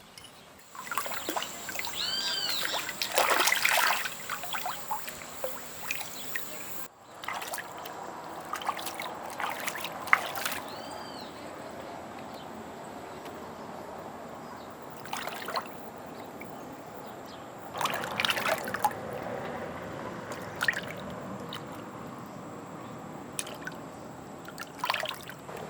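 Water trickling steadily, with scattered louder splashes and knocks.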